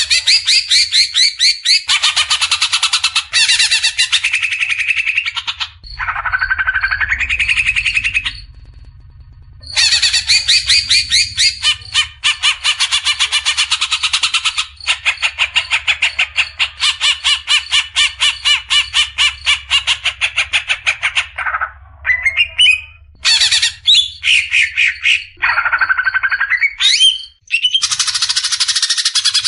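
Cucak ijo (leafbird) singing its fast, harsh 'besetan' song: long runs of rapid repeated notes, broken by a few short pauses and some rising whistled glides.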